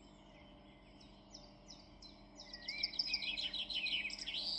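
Songbird singing: a few short, high, downward-sliding whistles, then from about halfway a quicker, louder run of chirps and warbles, over a faint steady hum.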